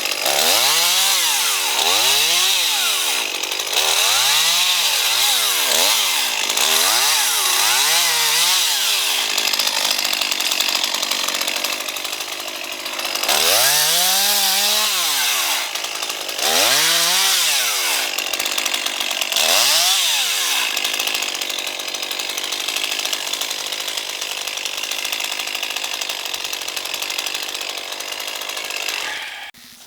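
Two-stroke chainsaw cutting brush, its engine revved up and down again and again with the throttle, with stretches of steadier high-speed running between the bursts. It stops just before the end.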